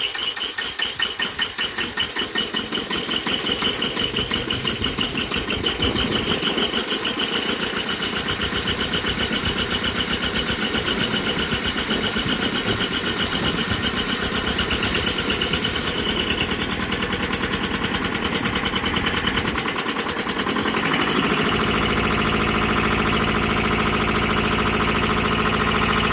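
Bolens G174 tractor's two-cylinder diesel engine running just after catching on a hard start, uneven for the first couple of seconds, then settling into a steady fast chug, with a change in its note late on. The engine is worn out, with low compression in both cylinders.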